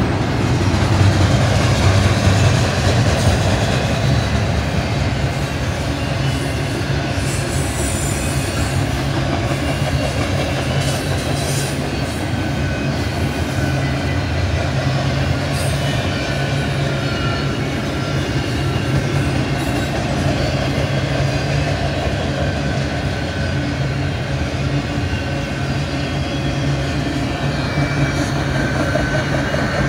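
Double-stack container train's well cars rolling past at speed: a steady rumble of steel wheels on the rails, with occasional faint high wheel squeal.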